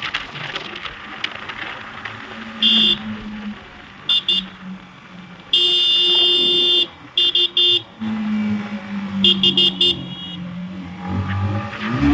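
A vehicle horn honked over and over in traffic: single short toots, a long blast of about a second near the middle, then quick clusters of toots. Under it a motorcycle engine runs steadily while riding.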